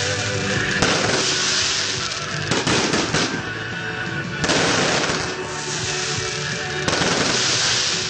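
Fireworks going off: shell bursts with sharp bangs and fizzing crackle, about four big bursts a couple of seconds apart, over background music.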